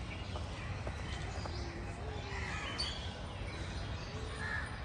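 Outdoor ambience: a steady low background rumble with faint scattered bird chirps.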